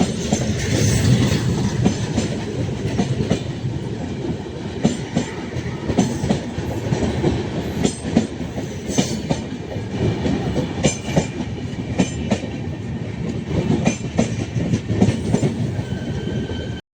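Indian Railways passenger train running on the track: a heavy rumble with irregular clickety-clack of wheels over rail joints. It cuts off suddenly near the end.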